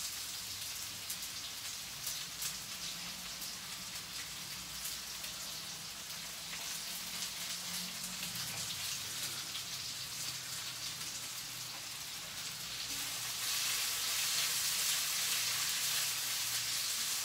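Black mustard seeds frying in hot rapeseed oil, a sizzle dotted with many small pops and crackles. Partway through, sliced onions go into the oil, and near the end the sizzle grows louder and steadier as they are stirred.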